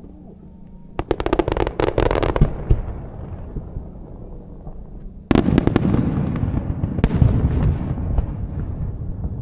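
Aerial fireworks bursting: a rapid crackle of many sharp reports about a second in, then a sudden loud bang about five seconds in, followed by rumbling booms and crackle that fade away.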